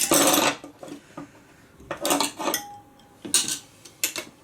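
Metal tyre-changing tools clinking and scraping against a motorcycle wheel rim: a loud scrape at the start, then several sharp metallic clinks.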